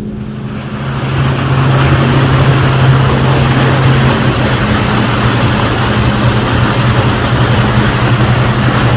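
Tour boat's engine running under way, picking up about a second in to a steady low drone, with rushing wind and water noise over it.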